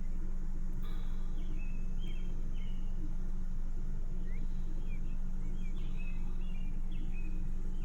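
Birds chirping in short, repeated calls over a steady low hum.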